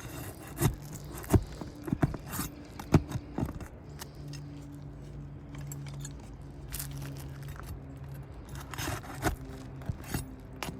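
Metal tool scraping and knocking against asphalt shingles as it probes under them for the roofing nails, a series of sharp clicks and scrapes. A low steady hum runs for a few seconds in the middle.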